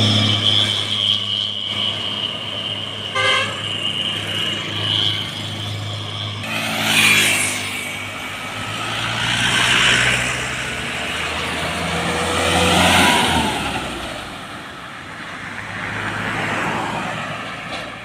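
Road traffic: a heavy vehicle's engine running low under a long steady horn tone for about the first five seconds, then several vehicles passing one after another, each swelling and fading, about every three seconds.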